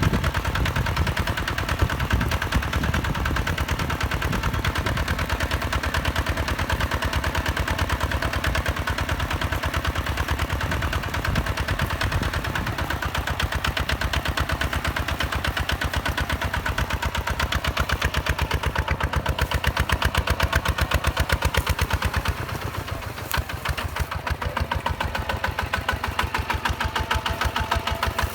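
Hinota HG Gold 155 DI tractor's single-cylinder diesel engine running with a fast, even train of firing pulses. It drops briefly in level a little over 20 seconds in, then picks up again.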